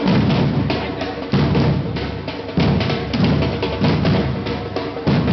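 A street drum group beating a steady rhythm: a heavy bass-drum stroke about every second and a half, with quicker, lighter drum strokes between.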